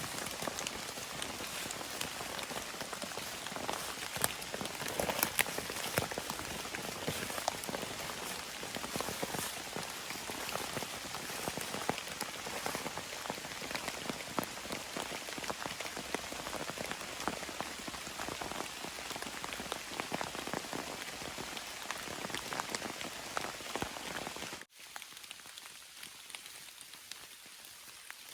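Heavy rain falling, a dense hiss with many distinct drop hits pattering on a surface. Near the end it cuts abruptly to a quieter, lighter rain.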